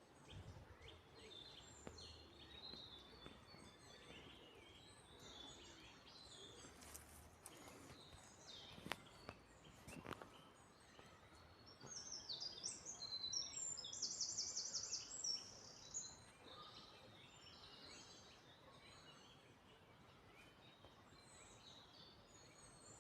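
Faint chirps and calls of several songbirds. About halfway through, one bird gives a louder, rapid high trill of quickly repeated notes lasting a few seconds.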